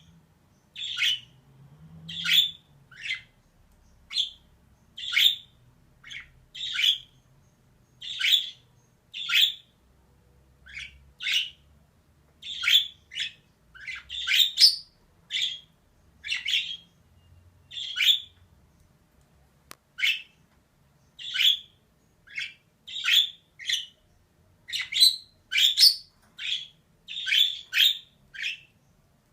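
Female budgerigar calling in short, harsh chirps and squawks, repeated about once or twice a second and sometimes in quick pairs.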